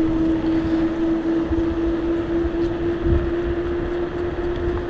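Wind buffeting the microphone of a chest-mounted camera on a moving bicycle: uneven low rumbling, with a steady unchanging hum underneath.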